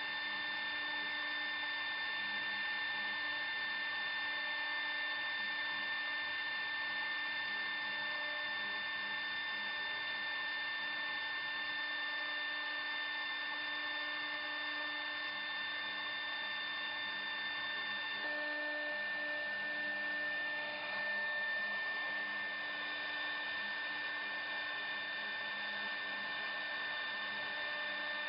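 A woodworking CNC router's spindle running steadily with a high, even whine over a hiss. Its tone shifts slightly about two-thirds of the way through.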